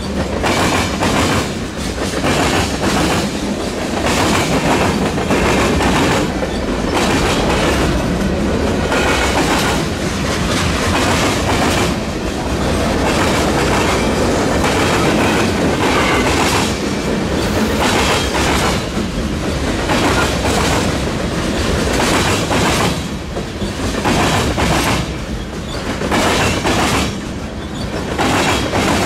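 Freight train cars rolling past with a steady rumble, wheels clacking over the rail joints, and now and then a thin high wheel squeal.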